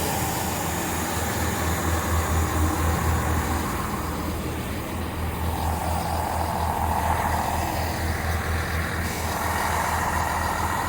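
Class 166 Turbo diesel multiple unit with its diesel engines running, a steady low throb under a wash of noise.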